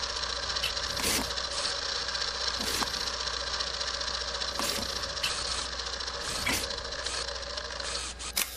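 Old film projector running: a steady mechanical clatter with hiss and crackle over a low hum, with scattered clicks and a sharper click near the end.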